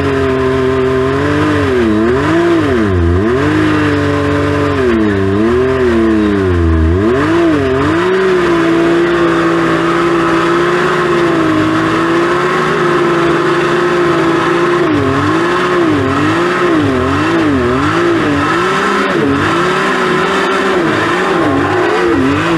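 Side-by-side UTV engine running hard, its revs rising and falling over and over as the throttle is worked, holding steadier for a few seconds in the middle.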